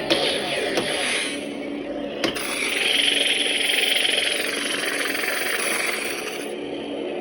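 Lightsaber sound font playing: a steady buzzing electric hum with long swelling swing sounds over it, and brief sharp hits near the start and about two seconds in.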